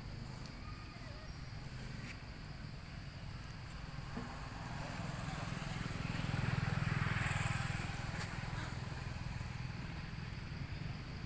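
A motor vehicle's engine passing by: a low hum that swells about halfway through, peaks, then fades, over a steady faint high hiss.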